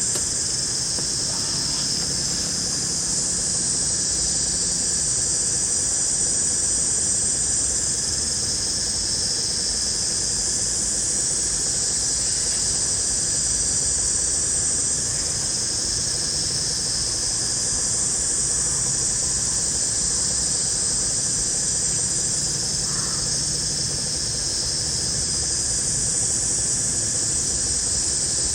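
Dense chorus of forest insects such as cicadas or crickets, a steady high-pitched shrilling that slowly swells and eases.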